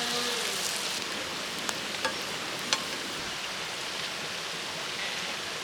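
Steady hiss of running or falling water, with a few sharp ticks about two seconds in.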